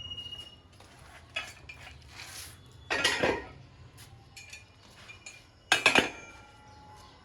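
Metal parts and tools clanking and clinking as they are handled: scattered light clinks, a louder clank about three seconds in, and a quick cluster of sharp clanks near the end that ring briefly.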